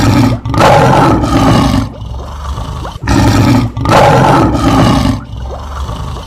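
Lion roaring twice, each roar about two seconds long, the second about three seconds after the first.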